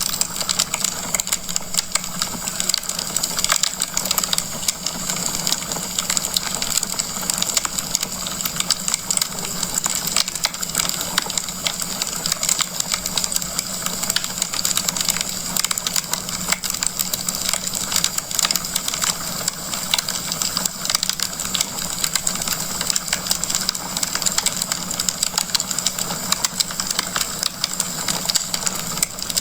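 Wood fire crackling in a fireplace: a dense, unbroken run of small pops and snaps over a steady hiss, with a faint steady low hum underneath.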